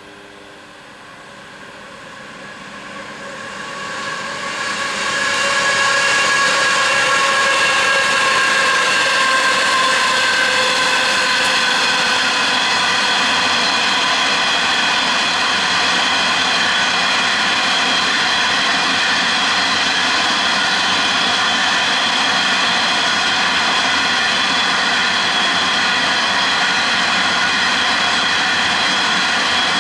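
Loaded coal train hauled by two Aurizon 5000 class diesel-electric locomotives, growing louder over the first six seconds as the locomotives come up and pass. The loaded coal wagons then roll by steadily, with several high steady whining tones over the rumble.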